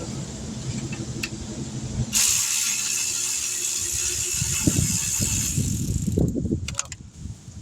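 Brake-job tool work: a loud steady hiss lasting about three seconds, then a few sharp metallic clicks and clanks.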